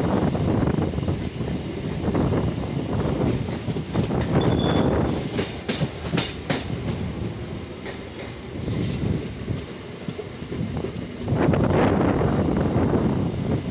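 Passenger train coaches running on the rails, heard from an open coach door: a steady rattling rumble of wheels on track, with short high-pitched wheel squeals a few seconds in and again around nine seconds.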